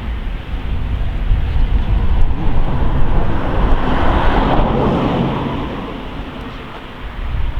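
A vehicle passing close by: a rushing rumble that builds to a peak about halfway through and then fades away.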